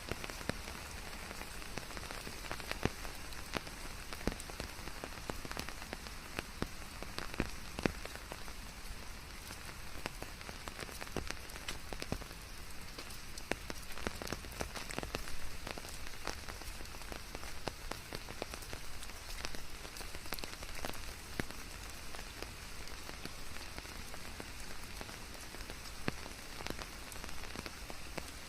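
Steady rainfall, with many individual drops tapping sharply on a hard surface over an even hiss of rain.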